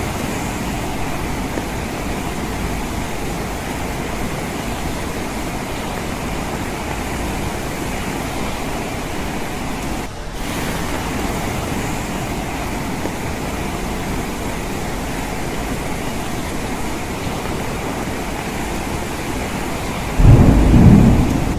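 Steady rain pattering on a window, with a brief dip about halfway. Near the end a sudden loud, low rumble of thunder breaks in.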